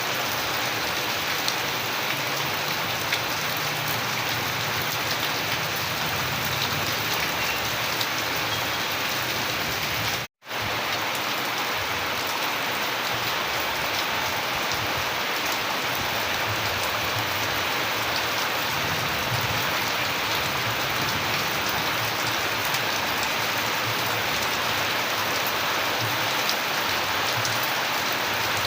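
Steady rain, with a constant hiss and scattered light drop ticks. The sound cuts out for a split second about ten seconds in, then carries on unchanged.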